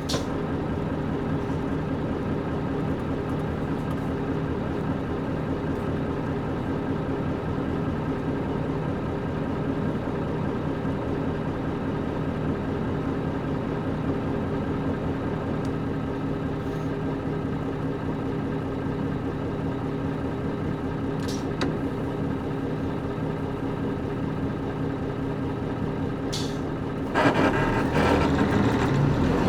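Diesel engine of a KC-UA460LSN one-step bus, PG6 engine, heard from inside the cabin. It runs at a steady, unchanging pitch, then grows louder with a surge of noise near the end.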